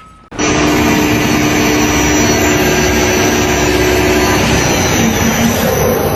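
A loud machine starts suddenly and runs steadily, a dense noise with a steady whine in it.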